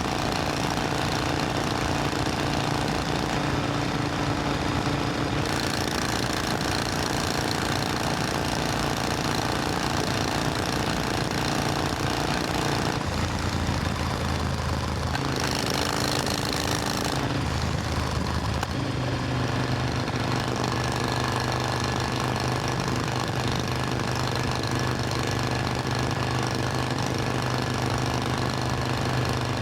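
Supercharged Triumph Thunderbird Storm's 1700 cc parallel-twin engine running steadily on the ride. Its note changes several times about halfway through, then settles again.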